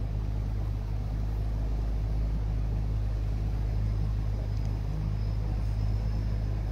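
Boat engine running steadily, a low even hum with no change in speed.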